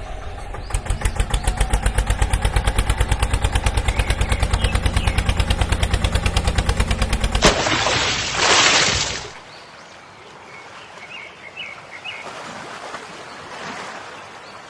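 Engine-like chugging, a low rumble beating about ten times a second, runs for the first seven seconds or so and stops abruptly. A loud rushing noise follows for nearly two seconds, then only a quieter outdoor background with a few faint chirps.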